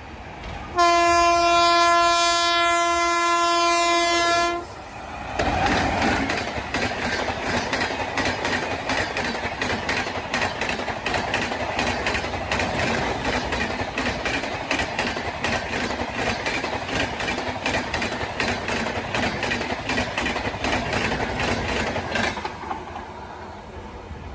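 A WAP-7 electric locomotive's air horn sounds one long steady blast of about four seconds. The Rajdhani Express then passes at speed: a rhythmic clickety-clack of the wheels over the rail joints, with rushing noise, for about seventeen seconds, ending suddenly as the last coach goes by.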